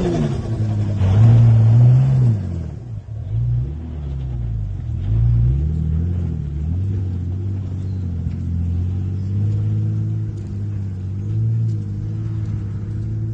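Turbocharged 4x4's engine revving, its pitch rising and falling several times in the first half, then running on at a steady low pitch.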